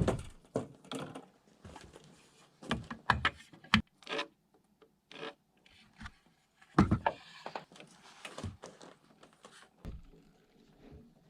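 Hand tools working timber: a run of irregular knocks on wood with a few longer rubbing strokes in between.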